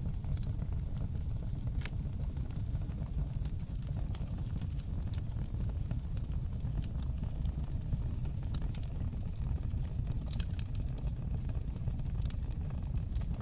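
Wood fire burning in a fireplace: a steady low rumble of the flames with irregular sharp crackles and pops from the burning wood, a quick flurry of them about ten seconds in.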